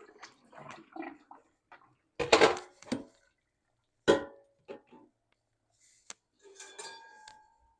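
Cookware being handled: a few sharp metal clanks, the loudest about two and four seconds in, then a clatter near the end that leaves a brief metallic ring.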